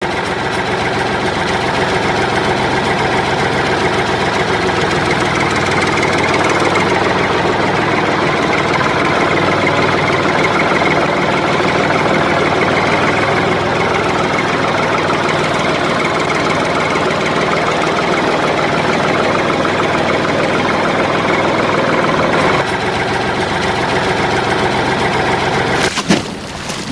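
A tractor-like engine running steadily. Its sound shifts slightly about 23 seconds in, and a sharp click comes near the end before it fades away.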